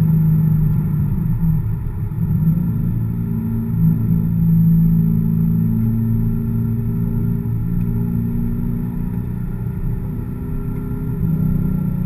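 Chevrolet Corvette V8 engine running under load, heard from inside the cabin. Its pitch holds fairly steady, with a brief dip and recovery about two seconds in.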